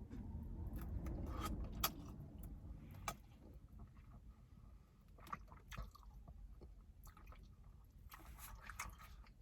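A person chewing and gnawing a sticky glazed chicken wing, picking the meat off the bone, with scattered soft wet clicks and smacks. A low rumble underlies the first three seconds.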